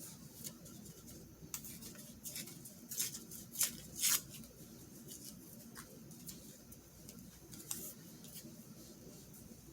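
Paper being handled for a collage: a series of short, dry rustles and scrapes, the loudest cluster about three to four seconds in.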